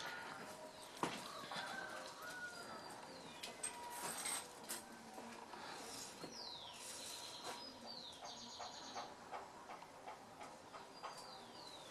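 Birds singing, a few at a time: short repeated phrases of high notes that slide downward, now and then a quick buzzy trill, over faint scattered clicks and knocks.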